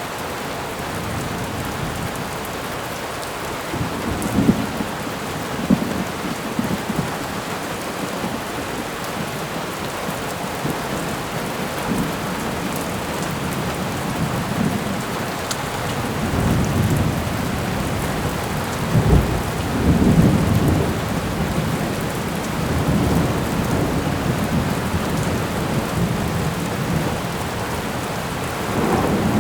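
Thunderstorm: steady heavy rain with rolling thunder that swells in low rumbles several times, strongest about two-thirds of the way through.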